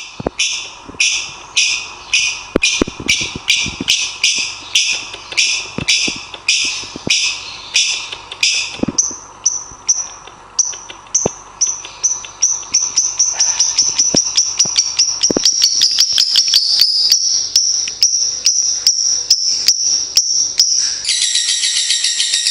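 Lovebirds calling: a run of shrill, harsh chirps at about two a second, then high notes that quicken into a rapid, rattling chatter, breaking into a dense, loud burst of calls near the end.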